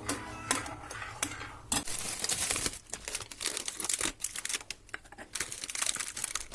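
Crinkly wrapping or paper being handled: a few light clicks, then a long stretch of uneven crackling and rustling.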